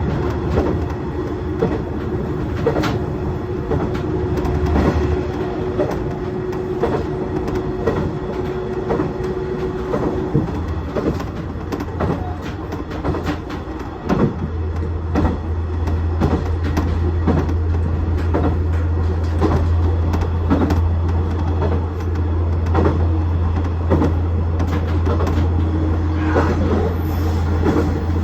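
KiHa 110 series diesel railcar running along the line: a steady diesel engine drone with irregular clicks of the wheels over the track. A steady hum stops about ten seconds in, and about fourteen seconds in the engine's low drone grows markedly louder, as when power is applied.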